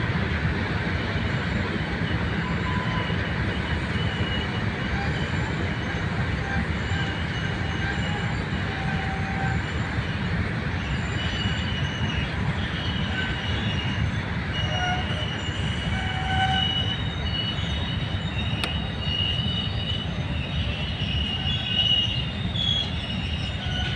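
Goods train of open box wagons rolling past: a steady rumble of wheels on rail, with high-pitched metallic squealing that comes and goes and grows more frequent in the second half.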